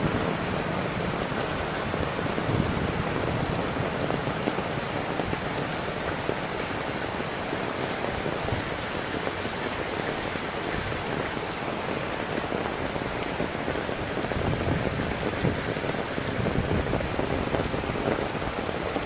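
Heavy rain falling in a steady downpour, a dense even hiss of drops hitting surfaces, slightly heavier near the end.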